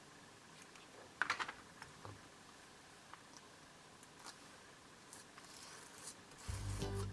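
Faint clicks and light taps of paper card strips being handled and pressed down, with a quick cluster of clicks about a second in and a few single ticks after. Background music fades in near the end.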